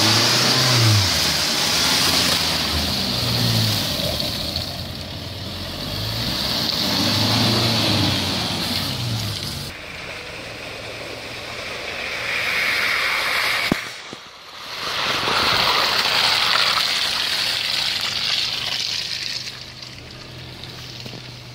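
An off-road SUV's engine revving in repeated surges, the revs climbing and falling several times over a steady hiss. After a brief lull about two-thirds of the way through, the engine settles to a steadier, lower note.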